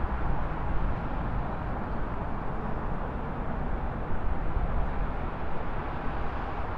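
Steady rumble and hiss of city traffic, cars passing on a road, from a stock sound-effect track.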